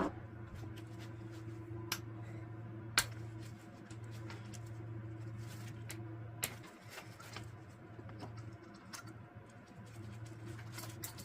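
A few sharp clicks and knocks of tools and engine parts being handled during an engine teardown, the loudest about three seconds in, over a steady low hum.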